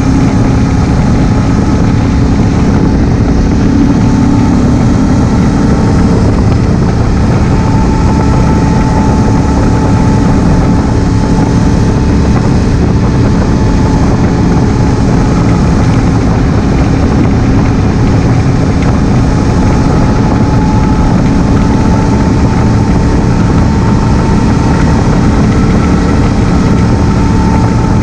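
2016 Honda Africa Twin CRF1000L's parallel-twin engine running at a steady, even pace under way, mixed with dense road and wind noise.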